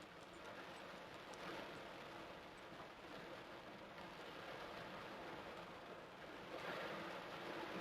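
Torrential rain pouring down: a steady hiss that swells louder about six and a half seconds in.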